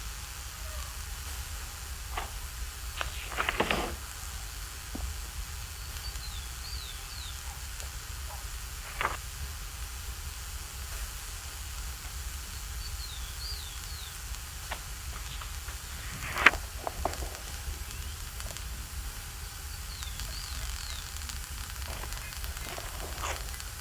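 Food sizzling in a frying pan, with wind rumbling on the microphone. A few sharp knocks, the loudest about two-thirds of the way through.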